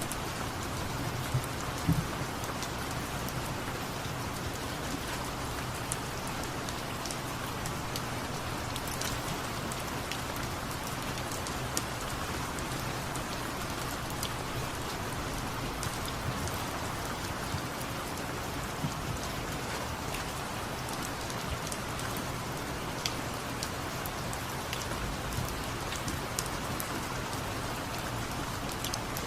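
Steady rain falling, an even hiss of rain on surfaces, with a few sharp ticks, the loudest about a second or two in.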